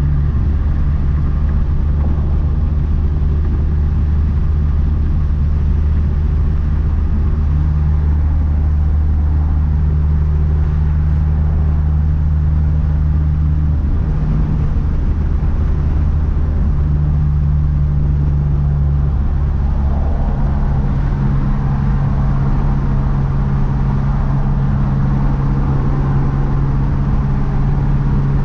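2012 Mazdaspeed 3's big-turbo 2.3-litre turbocharged four-cylinder running under steady driving. It gives a steady low engine note whose pitch steps a few times, with no hard revving.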